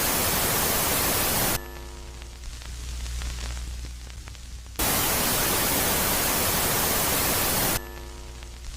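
Space-ambience noise track presented as the sound of Jupiter's moon Megaclite, switching between a loud phase and a quiet phase. The loud phase is a harsh, even static hiss lasting about three seconds. Then it cuts sharply to a quieter low hum, in which a brief chord of evenly spaced tones appears and fades. The loud hiss comes back about five seconds in and drops again near the end.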